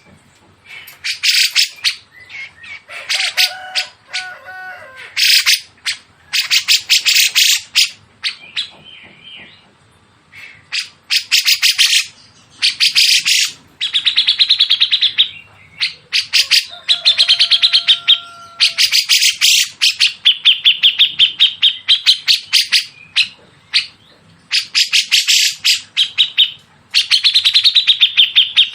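Songbirds calling in a cage-bird tutor recording that mixes cucak jenggot (grey-cheeked bulbul) and small minivet. The calls come as repeated bursts of very fast, harsh, high chattering trills, each lasting a second or two. Now and then there are shorter, lower whistled notes between them.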